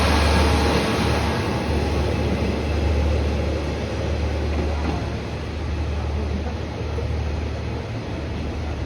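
Kashima Rinkai Railway 8000 series diesel railcar train pulling away, its engine and wheel noise slowly fading as it leaves, over a steady low rumble.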